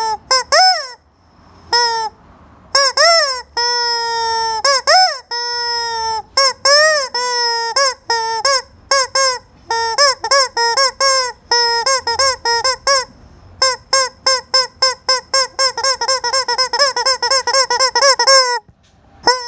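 Rubber squeaky chicken toy being squeezed: long, loud honking squawks, then a quick run of short squeaks at about four a second near the end.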